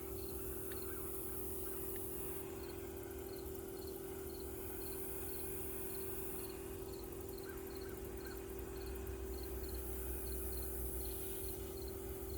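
A cricket chirping, short high chirps at an even pace of two or three a second, over a steady hum.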